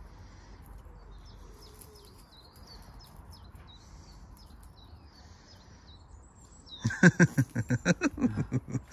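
Garden birds chirping faintly, with short calls repeating over a quiet outdoor background. Near the end a much louder rapid run of short pulses, about seven a second, takes over.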